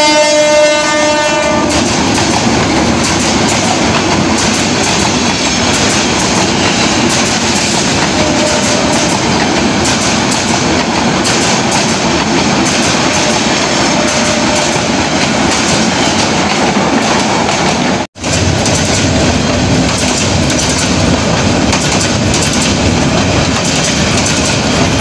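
A passenger train's horn sounds for the first couple of seconds and stops. The train then runs past close by with a steady loud rumble and the clatter of its wheels over the rail joints. The sound drops out for an instant about two-thirds of the way through.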